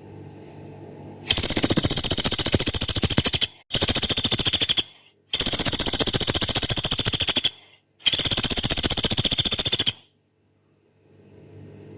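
Pelatuk beras, a small woodpecker, giving four long, fast, harsh rattling calls of one to two seconds each, separated by short pauses.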